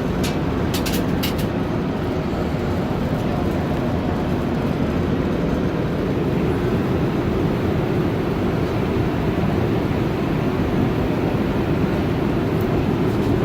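Steady cabin roar of an Airbus A350-900 airliner in flight, with a few light clicks near the start.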